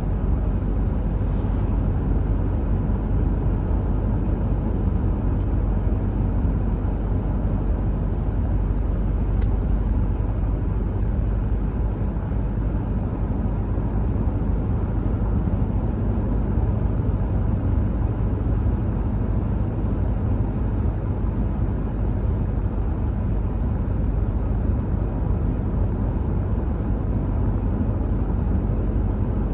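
Car driving at a steady speed: an even low rumble of tyre and engine noise that holds level throughout.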